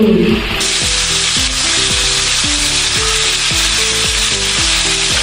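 Chopped tomatoes sizzling steadily as they fry in butter and oil in a kadai, the sizzle starting suddenly about a second in.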